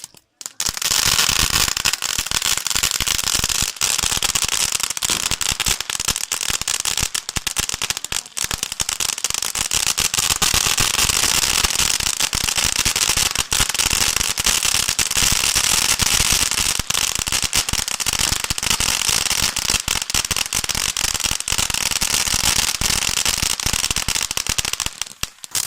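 Fireworks crackling: a dense, unbroken stream of rapid pops and crackles. It starts about half a second in and stops shortly before the end.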